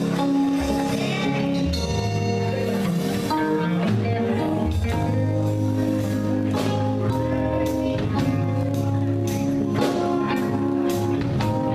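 Live band music: a steady bass line, guitar and drums, with no clear singing.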